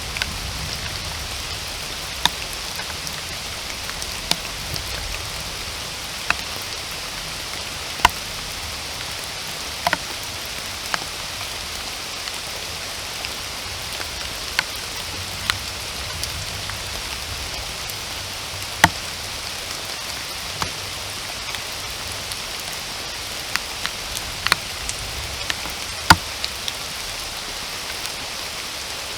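Steady rain falling on forest vegetation, an even hiss. Single heavier drops land with sharp ticks at irregular moments, every second or two.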